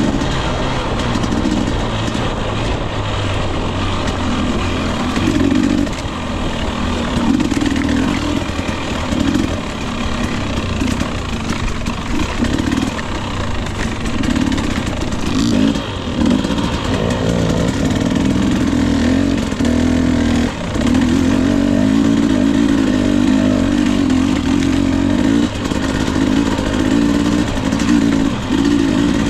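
Husqvarna TE 250i two-stroke dirt bike engine under way, its pitch rising and falling over and over as the throttle is worked on and off.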